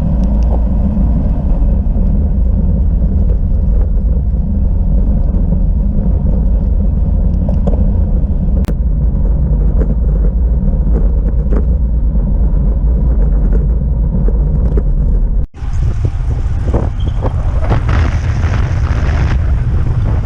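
Steady, loud wind rumble on the microphone of a camera riding along on a moving bicycle. After a sudden cut about three-quarters of the way through, the wind noise turns brighter and hissier.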